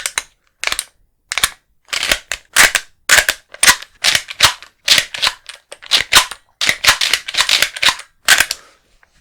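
Empty pellet pistol being dry-fired over and over: a quick series of sharp mechanical snaps, about two a second, that stop shortly before the end.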